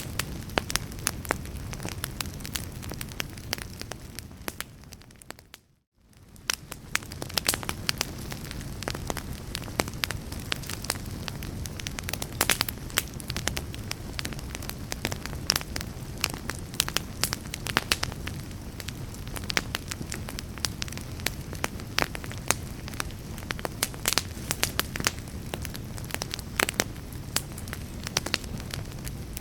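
Fireplace fire crackling: frequent sharp pops and snaps over a low steady rumble. About five seconds in it fades out to a moment of silence and fades back in.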